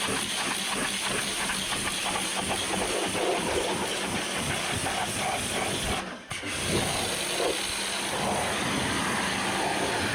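Pressure-washer jet hissing steadily as it sprays, with a short break about six seconds in.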